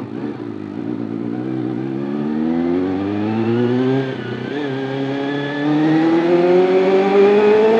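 Honda CBR400RR's inline-four engine accelerating hard with the pitch climbing steadily. There is a brief dip at an upshift about four seconds in, then a second pull rising to its loudest near the end.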